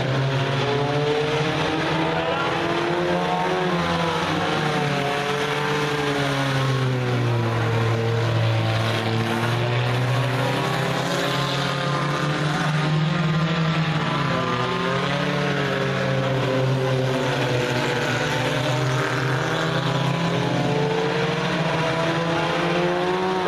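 Several race car engines running at speed around the track, their pitch rising and falling over and over as the cars pass and go through the turns.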